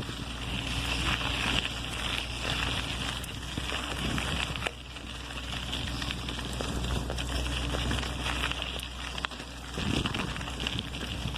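Wind buffeting a phone microphone and the road noise of a bicycle being ridden: a steady low rumble and hiss with scattered clicks and rattles.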